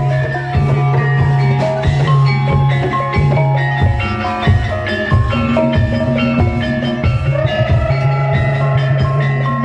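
Gamelan-style accompaniment music for a barongan dance: many short struck metal-keyed notes and drums over a held low tone, with a wavering higher melody line coming in about two-thirds of the way through.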